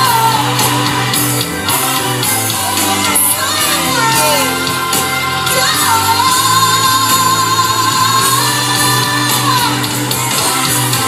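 Worship song: a singer holding long, wavering notes over a band accompaniment.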